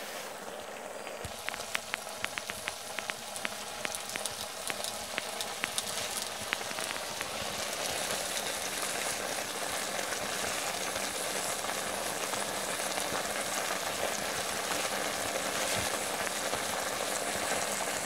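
Food frying in hot oil: sharp crackling pops in the first few seconds, settling into a steady sizzle that grows louder and then holds.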